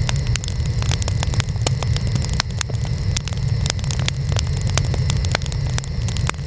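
Burning wood fire crackling, with frequent irregular sharp pops several times a second over a steady low rumble.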